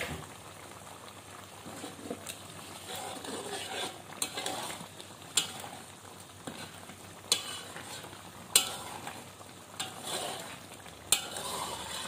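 Chili sambal paste sizzling as it fries in oil in a wok, with a metal spoon stirring and scraping against the pan in sharp clicks every second or two. The paste is being cooked down until the oil separates.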